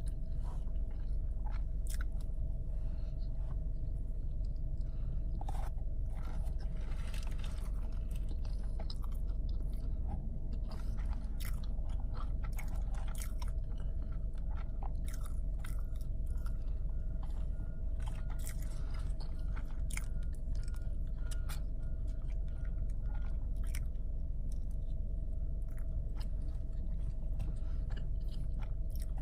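A person chewing and biting food close to the microphone, with many short crunchy and wet mouth clicks, over a steady low hum.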